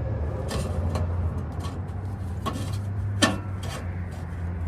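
A few sharp metallic clicks and knocks of hand tools and parts on the exhaust pipe and clamp, the loudest a little past three seconds in, over a steady low hum.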